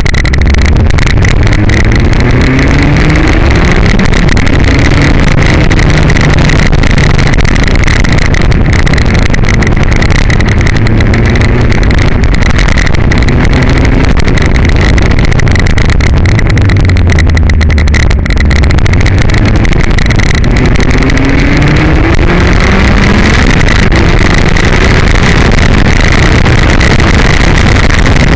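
Ariel Atom's engine running hard through the gears, its pitch rising in repeated sweeps as it accelerates, under a loud, steady rush of wind on the exposed onboard microphone.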